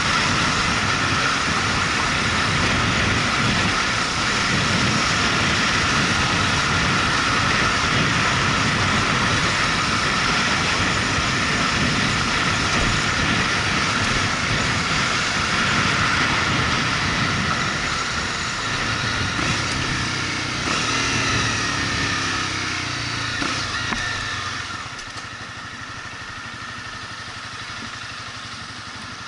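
Motorcycle engine running under way, mixed with rushing air on the microphone. Near the end the sound drops sharply and settles into the steadier, quieter note of the engine idling.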